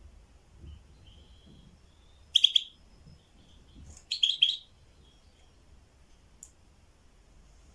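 A bird chirping: soft thin high notes, then two short loud bursts of rapid chirps about two seconds apart.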